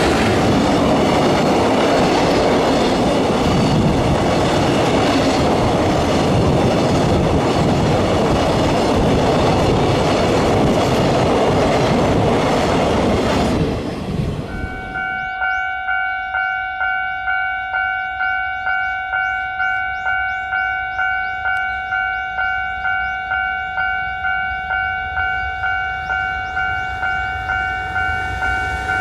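A freight train passes close by: a loud, steady rush of wheels and wagons that dies away about halfway through. A level-crossing bell is then left ringing in an even, fast repeating ding.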